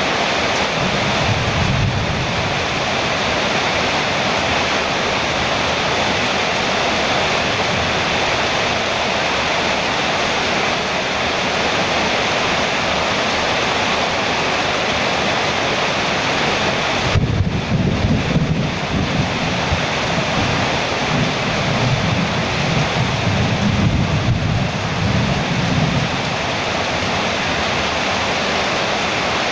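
Heavy rain drumming steadily on a metal roof, a constant hiss. Thunder rumbles low and briefly near the start, and again for several seconds past the middle.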